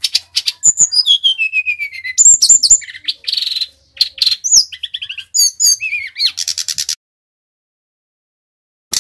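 Sikatan rimba dada coklat singing a fast, varied phrase of high whistles and trills, including a long falling whistle, that breaks off about seven seconds in. A short click sounds near the end.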